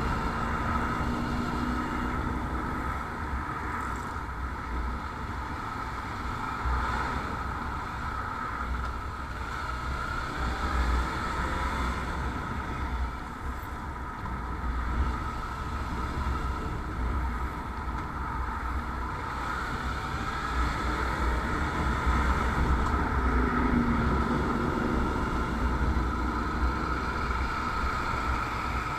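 Motorcycle engine running steadily while riding, with low wind rumble on the microphone.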